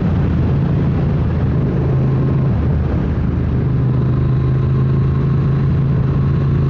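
Triumph Speed Twin 900's parallel-twin engine running under way at a steady pitch, with wind and road noise. The engine note dips briefly about two and a half seconds in, then holds steady.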